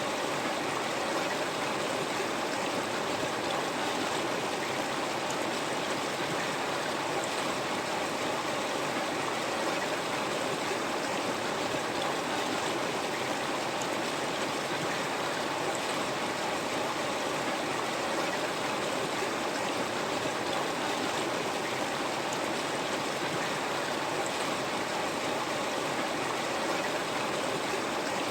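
River water flowing over rocks, a steady rushing with small splashes and gurgles.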